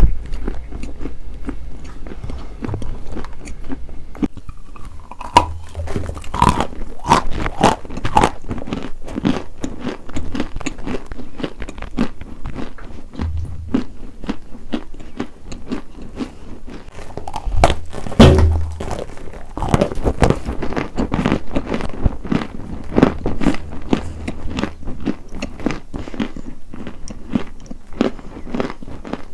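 Close-miked crunching: something hard and brittle being bitten and chewed, in a steady run of sharp crackly crunches, with a louder bite about 18 seconds in.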